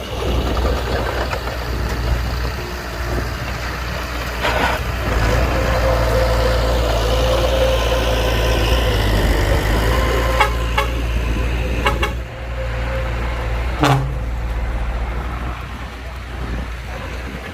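Heavy diesel construction machinery running with a steady low rumble. A held tone lasts several seconds in the middle, and a few sharp metallic clanks come over it.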